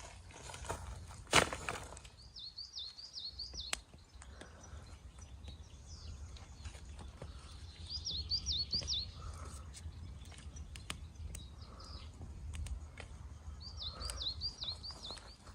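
A songbird singing the same short, quick warbling phrase three times. There is a single sharp crack about one and a half seconds in, and scattered light clicks.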